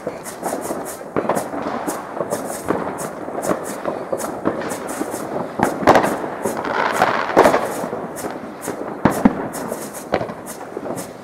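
Fireworks and firecrackers going off in quick, irregular succession: a dense run of cracks and bangs, loudest about six seconds in and again about nine seconds in.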